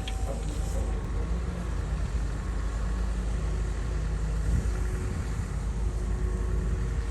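Komatsu bulldozer's diesel engine running with a steady low drone.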